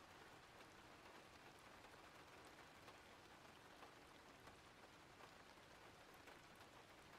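Faint, steady rain: an even hiss flecked with many small drop ticks.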